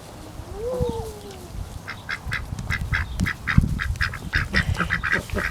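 Domestic ducks quacking: a fast run of short, repeated quacks, about four a second, starting about two seconds in. It comes after a single rising-then-falling call about a second in, with low thumps and handling noise close by.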